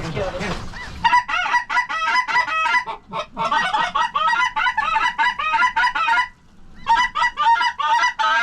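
Canada goose honking and clucking in fast, loud runs of about five notes a second, starting about a second in and breaking off briefly twice.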